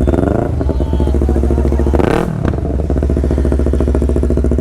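Yamaha R3 parallel-twin motorcycle with a loud aftermarket exhaust, run without a dB killer, idling. Right at the start a rev is dropping back, and about two seconds in there is one quick throttle blip before it settles to a steady idle.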